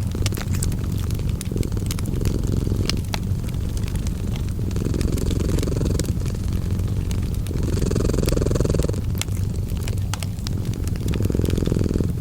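Cat purring, a steady low rumble that swells and eases every few seconds with its breaths. Fireplace crackling runs over it as many sharp, irregular pops.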